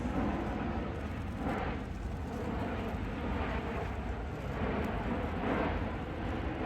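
Bombardier Global 8000 business jet's engines giving a steady rumbling roar during its flying display, swelling twice.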